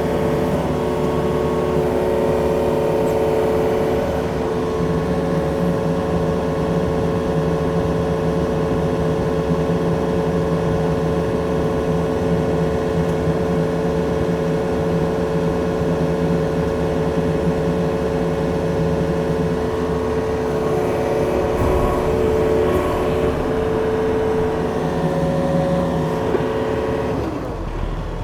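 Yanmar machine's diesel engine running steadily at working throttle. Near the end the engine note drops and gets quieter.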